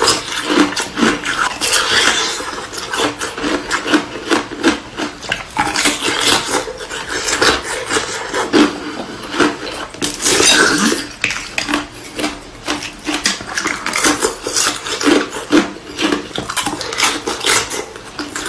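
Ice with juice frozen inside being bitten and chewed, a steady run of irregular crunches and cracks.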